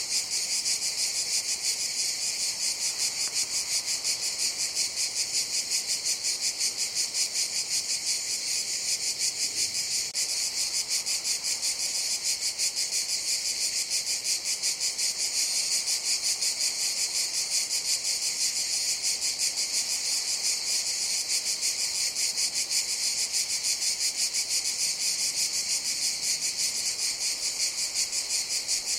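Cicadas buzzing in a continuous, high-pitched chorus with a fast, even pulse.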